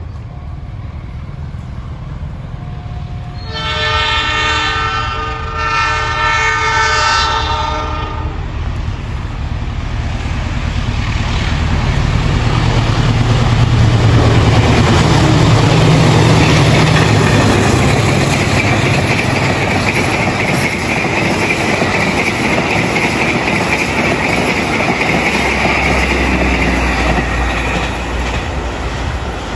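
A diesel locomotive's multi-tone horn sounds two long blasts a few seconds in. Then a passenger express passes at speed: the engine's low rumble swells to its loudest midway, followed by a steady clatter and hiss of wheels on rail as the coaches go by.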